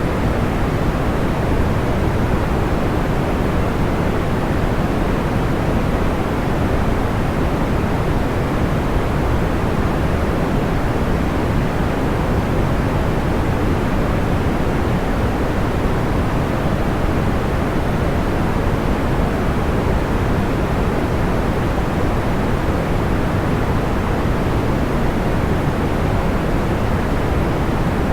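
Steady sleep-aid noise, a soft even rush weighted toward the low end, unchanging throughout with no distinct crackles or pops.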